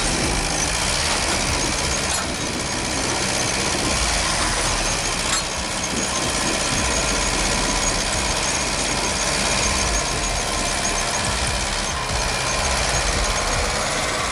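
A heavy vehicle's engine running steadily with a dense, rushing mechanical noise and a faint squeal. There are a couple of small clicks about 2 and 5 seconds in.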